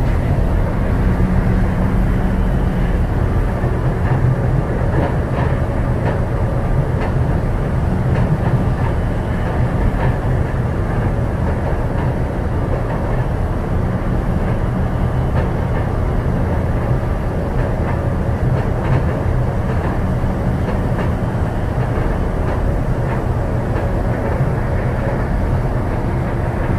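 Steady running noise heard inside a Yokohama Seaside Line 2000 series rubber-tyred automated train with Toyo IGBT-VVVF traction control, moving along between stations: an even low rumble with a faint steady hum above it.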